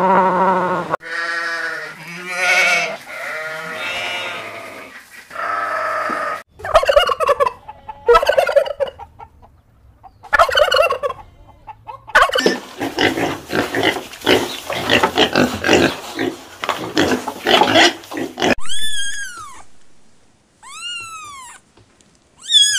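A series of animal calls. Penguins bray in the first few seconds, a tom turkey gobbles through the middle, and a kitten gives a few high, arching mews near the end.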